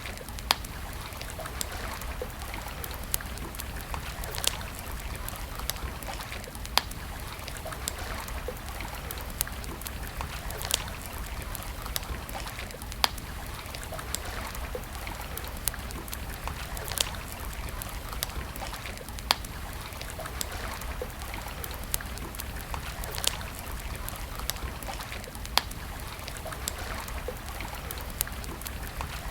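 Campfire crackling, with sharp wood pops every two to four seconds over a steady rushing hiss and a low rumble.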